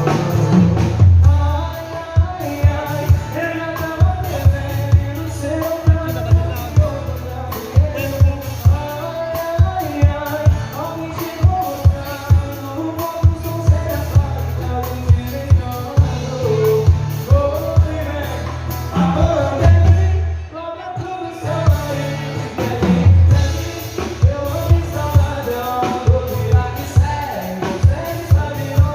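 Live sertanejo song: a sung lead vocal over a band, with a drum kit keeping a steady beat and a brief drop in the band about two-thirds of the way through.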